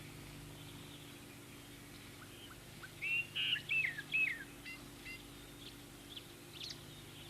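A bird calling: a quick run of short chirps about three seconds in, then a few fainter single notes, over a low steady hum.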